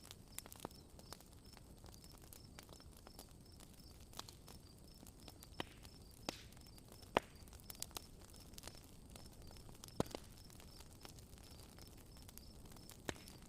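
Campfire crackling: scattered sharp pops over a faint hiss, two of them louder about halfway through and again a little later. A faint high chirp repeats steadily, about twice a second.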